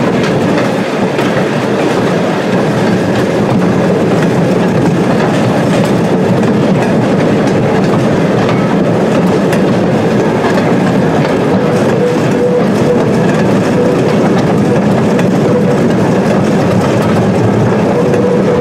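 Train ride heard from an open passenger car behind a small locomotive: a steady rumble and clickety-clack of steel wheels rolling over the rail joints, with the locomotive's engine running.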